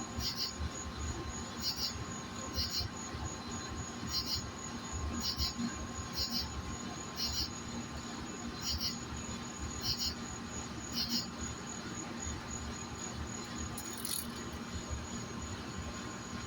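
Insects chirping: short, high, often paired chirps about once a second that stop about eleven seconds in, over a steady high insect trill. A brief high hiss comes near the end.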